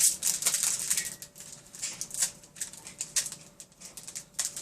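Foil wrapper of a trading-card pack crinkling and tearing as it is worked open, in short, irregular, crackly rustles.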